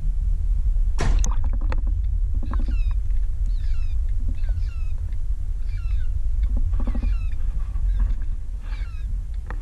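Birds calling: a run of short, repeated calls that slide downward in pitch, over a steady low rumble, with a sharp knock about a second in.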